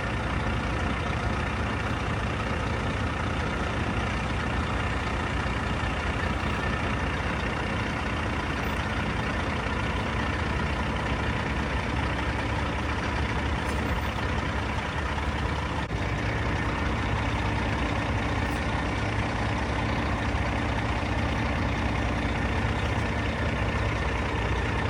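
Heavy diesel recovery machinery running steadily under load, a continuous low engine drone while a derailed train car is lifted.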